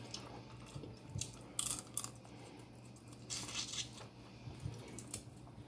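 Snow crab leg shells cracking and being pulled apart while eating, in short crackling bursts: a bigger one about one and a half seconds in and another past the middle.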